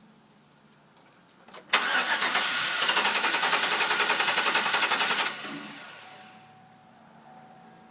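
2011 Chevrolet Silverado pickup's engine being cranked by the starter, with an even rhythm of about five pulses a second for three and a half seconds, then trailing off within a second. This is a hard start after the truck has sat, which the owner suspects comes from fuel pressure leaking down.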